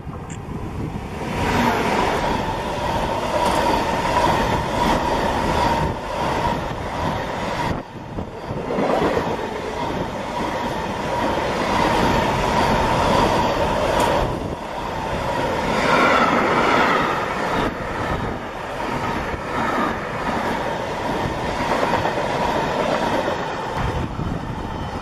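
Electric-hauled intermodal freight train of container wagons passing at speed: a loud steady rush of wheels on rail with a clatter over the joints, a few sharp knocks, and a steady high whine from the wheels.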